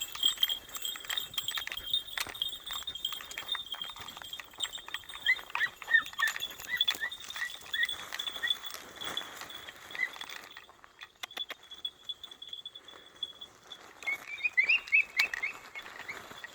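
Podenco puppies giving quick series of short, high-pitched yelps, the 'latido' a hound gives when it is on a rabbit's scent. The yelps come in two bouts, about five seconds in and again near the end, over scattered clicks and rustles.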